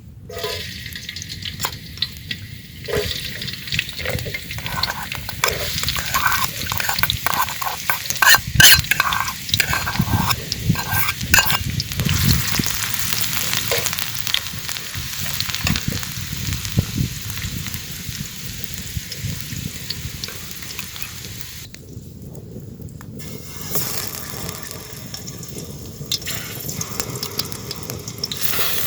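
Food frying and sizzling in hot oil in a pan, stirred with a utensil that scrapes and knocks against the pan many times in the first dozen seconds, hardest about nine seconds in. After that the sizzling goes on steadily.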